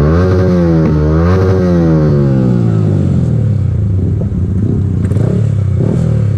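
Motorcycle with a full aftermarket exhaust system running loud, its engine pitch rising and falling twice in the first three seconds as the throttle is opened and closed, then running steadier at a lower speed.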